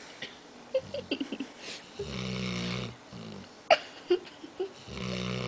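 A dog snoring: two snores about three seconds apart, each lasting just under a second, the first followed by a short weaker one. Short sharp clicks come between the snores, the loudest about 3.7 s in.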